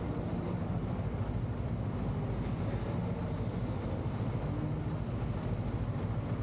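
Motorcycle engine running steadily while riding, a low, even sound with a slightly wavering pitch.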